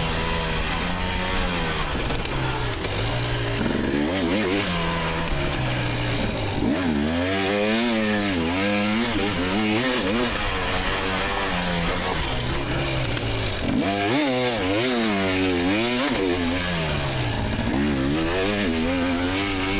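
2024 GasGas EX300 300cc two-stroke single-cylinder dirt bike engine working hard under race load. Its pitch climbs and drops again and again as the throttle opens and closes through the gears, over a steady rushing hiss.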